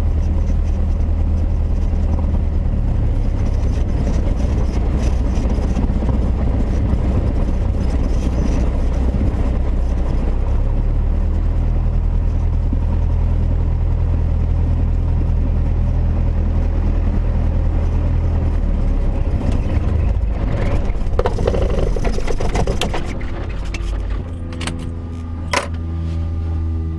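Cessna 172S's four-cylinder Lycoming engine and propeller droning steadily in the cockpit, the drone shifting about ten seconds in. Near the end the engine sound gives way to music.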